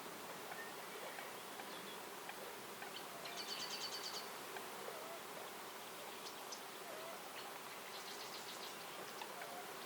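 Forest ambience: a faint steady hiss with two short, high, rapid trills about four seconds apart, each lasting about a second, and scattered faint chirps.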